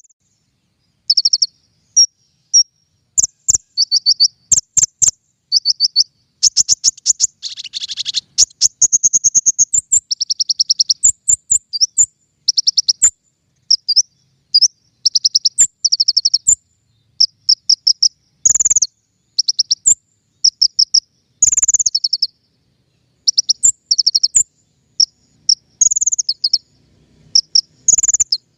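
King konin songbird singing: rapid, high-pitched chirps and trills in quick repeated phrases with short pauses, played as a masteran lure and tutoring recording.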